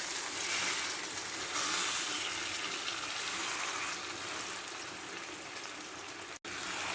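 Tomato-and-egg sauce sizzling in oil in a pan, a steady hiss as the beaten egg sets. The sound cuts out for an instant near the end.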